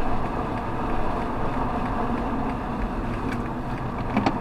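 Police car being driven on a course, heard from inside the cabin: steady engine and road noise, with a few brief clicks near the end.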